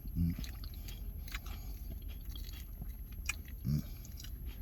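Close-miked chewing of a mouthful of lettuce and tomato from a poutine, with small crunches and wet mouth clicks, and two brief low hums, one just after the start and one near the end.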